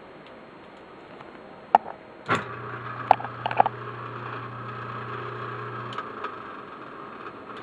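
Old Westinghouse pedestal sump pump: a sharp click, then its motor starts and runs with a steady hum for about three and a half seconds before stopping, with a few clicks and knocks while it runs.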